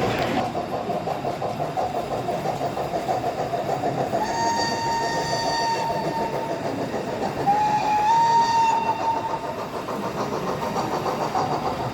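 Model steam locomotive's whistle sounding twice: a steady two-second blast about four seconds in, then a second blast that steps up in pitch partway through.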